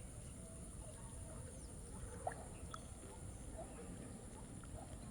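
Quiet outdoor ambience: a low rumble, a steady high-pitched drone, and faint scattered short chirps, with a single click a little past two seconds in.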